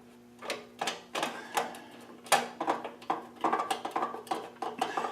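Irregular clicking and light metallic rattling of hand tools and small screws and nuts being handled and worked on a mini bike, with a faint steady hum underneath.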